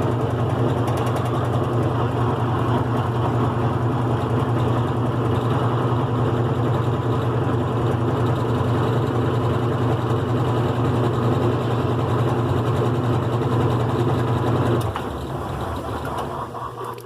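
GE Profile top-load washing machine with its single-speed motor, running steadily with a strong low hum. About fifteen seconds in the motor sound cuts off and the level drops to a softer noise.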